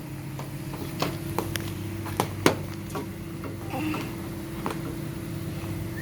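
Steady low mechanical hum holding several steady tones, with a handful of sharp clicks and taps scattered through the first half.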